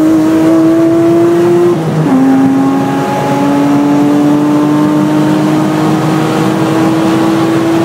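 Car engine heard from inside the cabin, accelerating down a straight: its pitch climbs slowly, drops sharply with an upshift about two seconds in, then climbs again slowly in the next gear.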